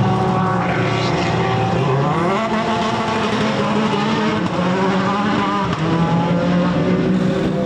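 Race car engine running on track, its note rising about two seconds in as it accelerates, then holding with small rises and dips through the gears.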